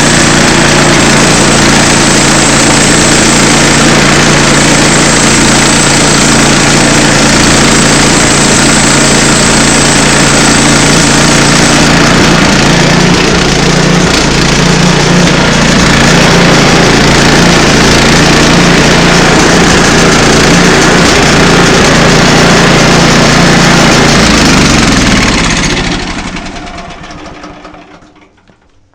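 Small petrol engine of a log saw running steadily at full throttle while ripping through a log, then shut off about 25 seconds in and winding down to a stop.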